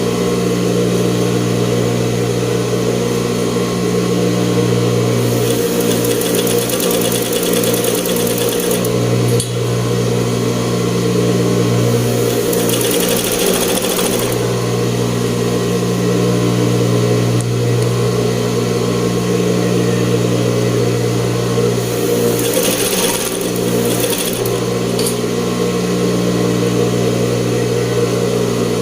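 Coverstitch machine running at a steady speed, stitching a hem. A brighter hiss rises and falls away three times.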